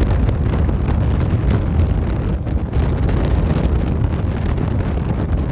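Wind buffeting the microphone while riding a Bajaj Pulsar NS200 motorcycle, a steady heavy rumble with the engine running beneath it.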